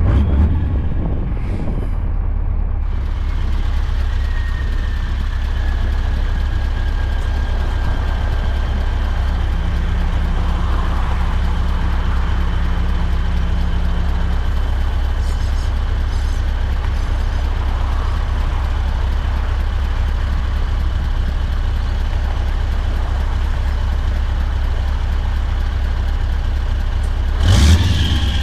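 Scania truck's V8 diesel engine running steadily with a deep, even drone. Near the end comes a short, sharp burst of noise.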